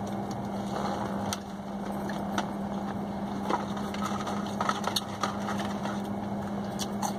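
Chewing on fried chicken strips and handling of a cardboard takeout box, with scattered short clicks and crinkles, over a steady low hum in a car's cabin.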